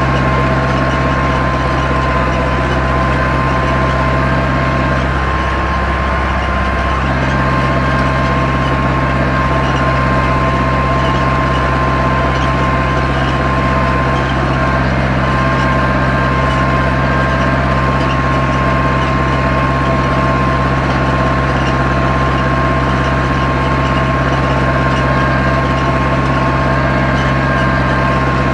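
Zetor 7245 tractor's four-cylinder diesel engine running steadily while ploughing, with a brief change in its note about five seconds in.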